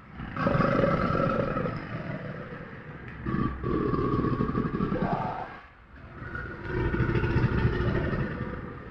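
A large animal roaring in two long, pulsing growl bouts, with a short break between them.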